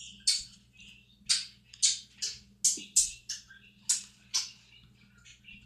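A spoon scraping and digging at a frozen cereal-and-milk mixture in a cup: about ten short, sharp scrapes at an uneven pace.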